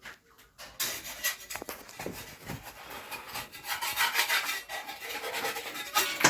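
Rapid, repeated scraping strokes of a hand tool against a bathroom ceiling during demolition and paint scraping, getting louder toward the end.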